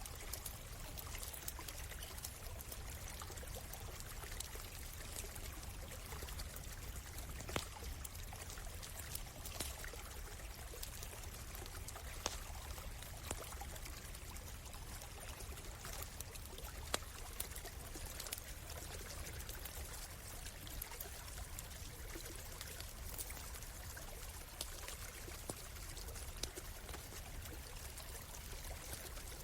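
A stream flowing steadily, with a wood campfire crackling: sharp pops and snaps every few seconds over the water.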